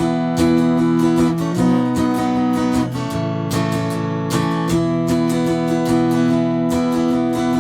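Donner HUSH-I Pro silent guitar strummed in a steady rhythm, moving through several chords, with no singing.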